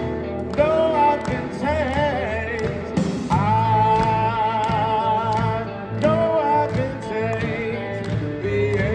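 Live sacred steel gospel music: a band playing with wavering, held melody notes over bass and drums, with singing.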